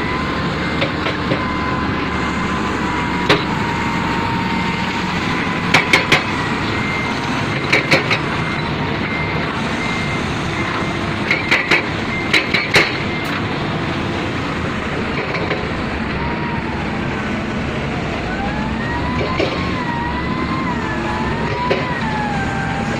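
Heavy construction machinery working: a diesel engine running steadily, with short metallic clanks in clusters and a thin whine that wavers up and down in pitch in the second half.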